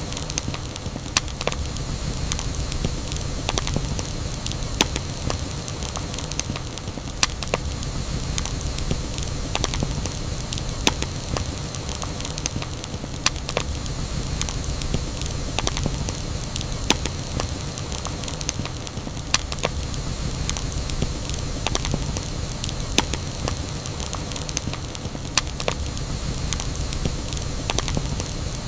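Campfire burning: a steady low rumble and hiss of flames with irregular sharp crackles and pops of burning wood, a louder pop every second or two.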